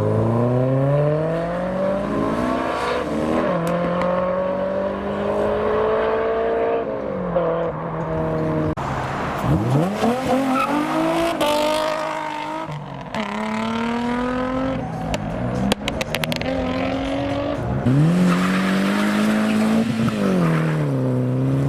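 Modified cars accelerating away one after another, the first a Honda S2000. Engine pitch climbs steeply and drops back at each gear change, several times over.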